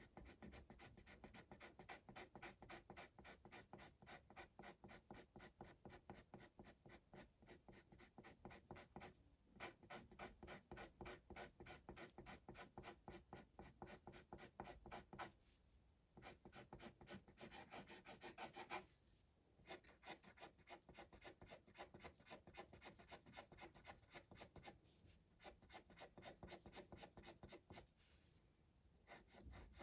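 Graphite pencil shading on sketchbook paper: quick back-and-forth strokes, about three to four a second, with short pauses several times as the pencil lifts.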